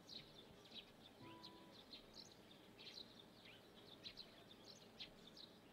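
Faint birds chirping: scattered short, high chirps over a near-silent background.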